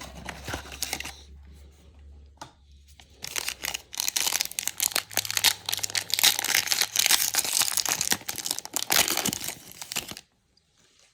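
Trading card pack wrapper being torn open and crinkled by hand: light rustling at first, then a dense run of crinkling and tearing from about three seconds in that stops abruptly about a second before the end.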